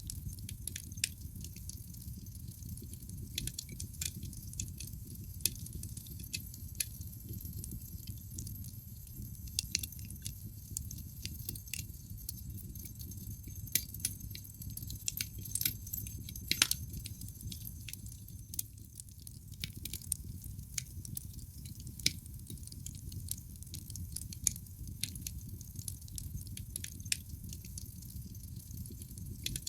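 Wood fire burning in a fireplace: irregular sharp crackles and pops from the burning logs over a low steady rumble of the flames, with one louder pop a little past halfway.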